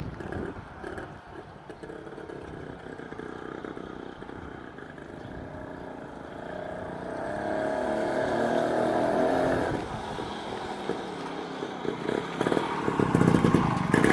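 Single-cylinder 98cc Villiers two-stroke engine of a 1955 Sun motorcycle being ridden around, heard from some way off. Its note rises and grows louder for a few seconds in the middle, drops back, then gets louder again near the end as the bike comes closer.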